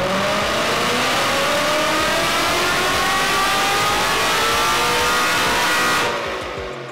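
Supercharged Gen 2 Coyote 5.0 V8 (Ford Performance 2300 supercharger) in a 1972 Mustang making a wide-open-throttle pull on a chassis dyno. The pitch climbs steadily for about six seconds, then the engine backs off near the end.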